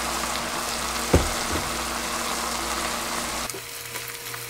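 Fish cakes, onion and chili sauce sizzling steadily in a wok, with a single knock about a second in. Near the end the sizzle softens, and a spatula and chopsticks stirring through the pan add faint scrapes.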